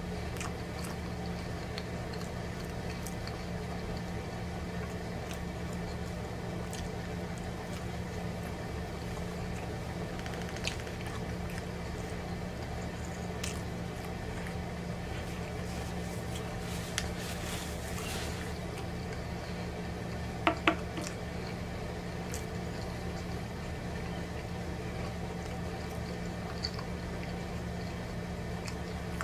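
Close-miked mouth sounds of a man chewing pizza, with scattered small clicks of eating over a steady low hum. Two sharp clicks a little past two-thirds of the way through are the loudest moment.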